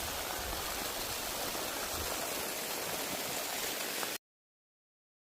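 Rushing water of a mountain stream or cascade, a steady even noise with a few low bumps at the start; it cuts off abruptly about four seconds in.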